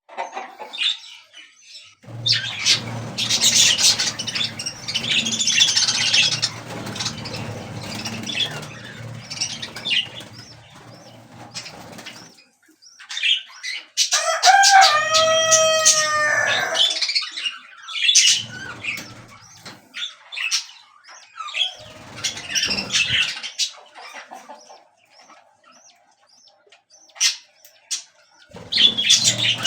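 Birds fluttering and calling. A long stretch of rustling and flapping is followed, about halfway through, by a long crowing call that rises and falls, then shorter calls.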